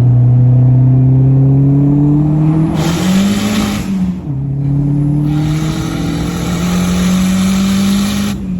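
Dodge SRT-4's turbocharged 2.4-litre four-cylinder accelerating at full throttle. The engine climbs in pitch with a rushing hiss on top, drops sharply at a gear change about four seconds in, and then climbs again before another drop near the end.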